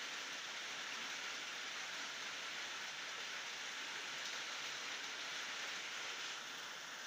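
Steady rain falling, an even hiss with no thunder, easing slightly near the end.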